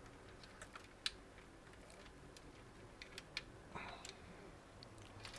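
Faint, scattered clicks and ticks of computer cables and plastic parts being handled and routed, with one sharper click about a second in.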